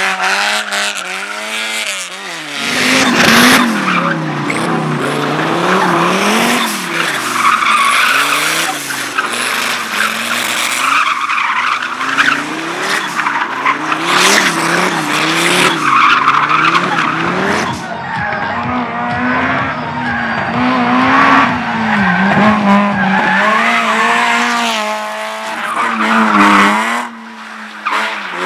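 Competition car driven hard through an autoslalom course. The engine revs climb and drop over and over as it accelerates and brakes between the gates, and the tyres squeal through the turns.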